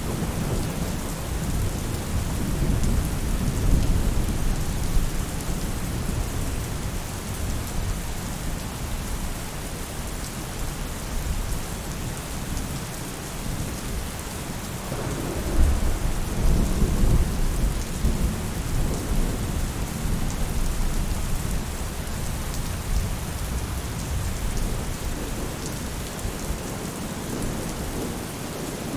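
Steady rain falling on a roof, with thunder rumbling low at the start and rolling again about halfway through.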